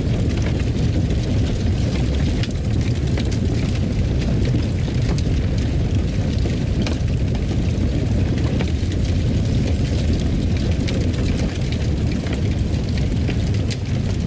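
Fireplace fire burning: a steady low roar with scattered sharp crackles and pops.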